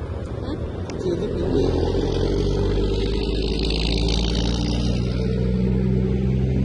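A motor vehicle engine running steadily at idle, a low even hum that sets in about a second and a half in, with a brief hiss in the middle.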